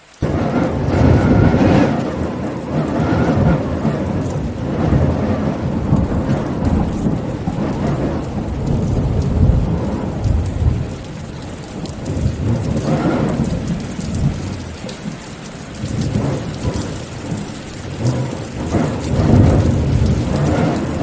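Steady rain with rolling thunder, the low rumble swelling and fading several times.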